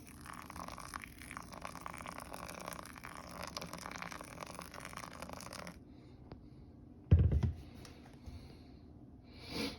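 Hot water poured from a kettle onto coffee grounds in a Chemex for the bloom, a steady pour that stops abruptly about six seconds in. About a second later comes one loud, low thump, and a shorter, softer noise near the end.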